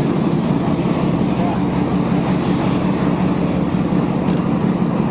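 Steady drone of a fjord cruise boat's engine: several low tones held level over a rushing noise, with no change in speed.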